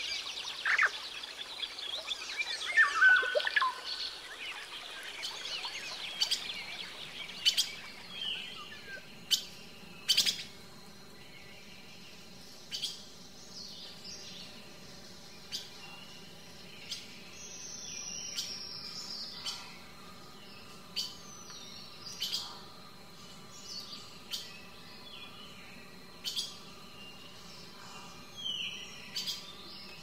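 Wild birds singing and calling: a dense chorus of overlapping songs for the first several seconds, then sparser single calls, sharp notes and short whistles, one a clear falling whistle past the middle.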